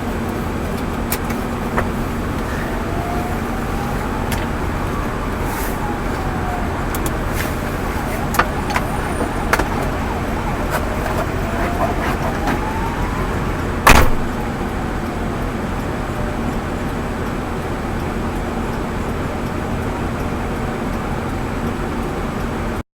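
Car on the road: steady engine and tyre noise with a low hum, a few light knocks, and one sharp loud bang about fourteen seconds in.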